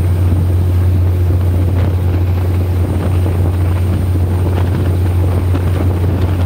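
Passenger train running along the track, heard from an open carriage window: a steady loud low rumble mixed with wind buffeting the microphone.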